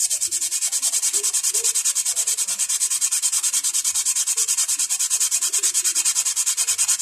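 Brake pad being sanded on 120-grit sandpaper with fast back-and-forth strokes, about eight a second, levelling its uneven friction surface. The scraping stops abruptly at the end.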